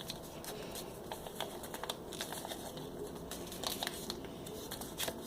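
Sheet of paper being folded and creased by hand: scattered crinkles and rustles of the paper.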